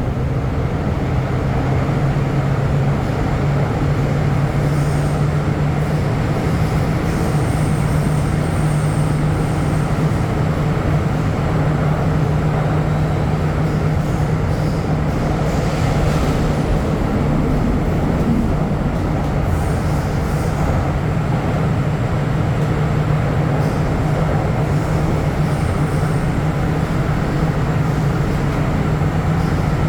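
MTR M-train electric multiple unit running between stations: a steady rumble of wheels on rail under a constant low traction-motor hum.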